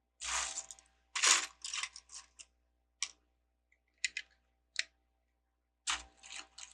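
Plastic LEGO bricks rattling and clicking as they are picked through and pressed together: two short clatters in the first second and a half, then single clicks spaced about a second apart and another small clatter near the end.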